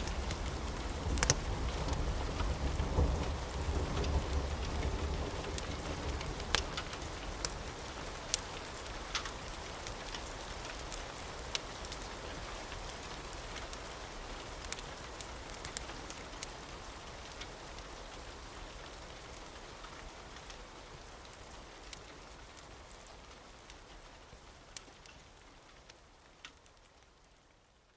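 Steady rain with scattered sharp crackles and a low rumble of thunder in the first few seconds, the whole mix fading out gradually.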